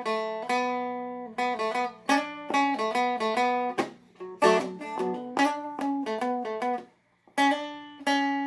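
Seagull Merlin M4, a four-string fretted dulcimer-style instrument, picking a slow single-note riff in B minor on the middle string, with open strings ringing underneath. The notes come one after another with a short break about seven seconds in.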